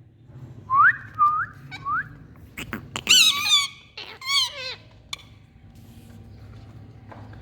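Indian ringneck parakeet calling: three short rising whistles, then two bursts of harsh, screechy squawks.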